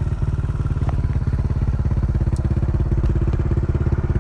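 Yamaha Exciter's single-cylinder engine idling steadily through a loud aftermarket exhaust, a fast, even putter.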